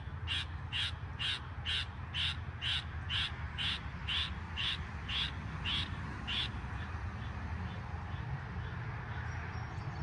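A bird's call repeated evenly about twice a second, stopping about six and a half seconds in, over the steady low hum of a Goodman GSZ14 heat pump outdoor unit.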